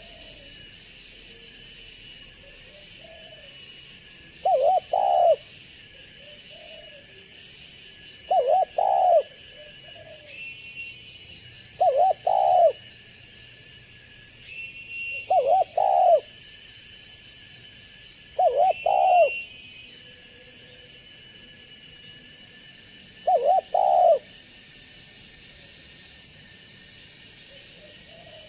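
Spotted dove cooing: six short phrases of a few low coos each, one every three to four seconds, over a steady high hiss.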